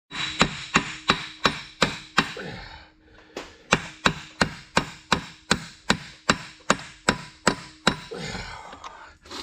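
Repeated hammer blows, about three a second, in two runs with a short pause between them, over a faint steady hum.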